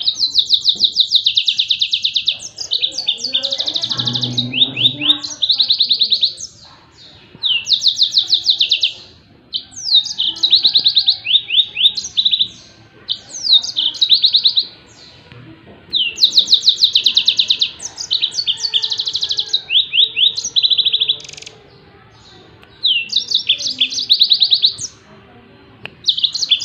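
Yellow-fronted canary (Mozambique canary) singing its rapid 'tembakan' song: repeated bursts of fast, high trilled notes, each burst lasting one to three seconds with short pauses between.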